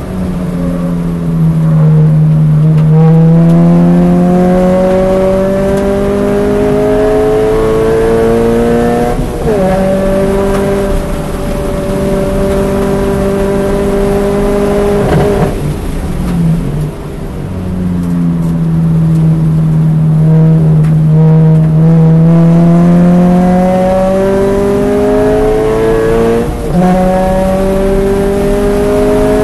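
2013 Scion FR-S's 2.0-litre flat-four engine at full throttle on track, heard from inside the cabin. The revs climb to a sharp upshift about nine seconds in, hold steady, drop away briefly a little past halfway as the throttle comes off, then climb again to another upshift near the end.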